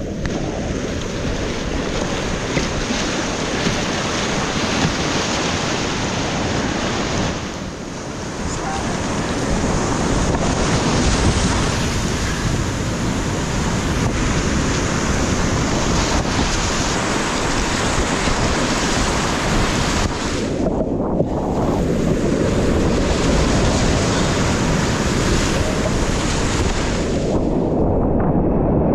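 Loud steady rush of whitewater rapids with wind noise on the microphone. The hiss thins out briefly twice, about eight seconds and about twenty-one seconds in.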